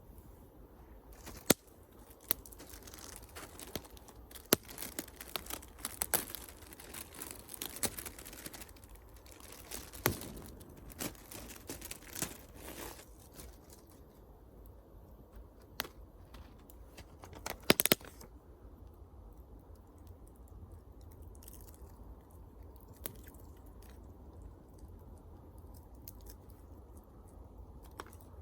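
Wood fire crackling, with a few loud sharp pops and a busier patch of crackle in the first half, thinning out later.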